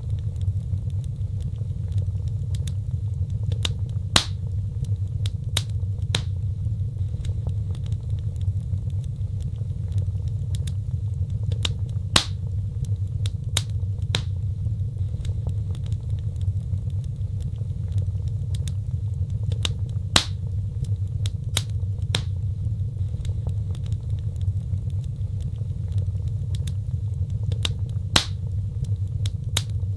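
Wood fire crackling: irregular sharp pops and snaps over a steady low rumble, with a louder pop about every eight seconds.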